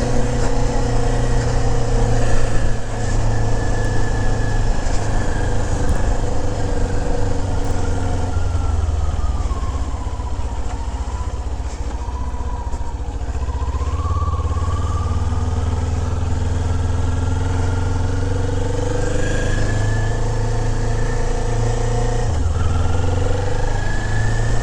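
Kawasaki Z400's 399 cc parallel-twin engine running under way, with wind rumble. The engine note drops as the bike slows about ten seconds in, then rises again as it accelerates, and climbs once more near the end.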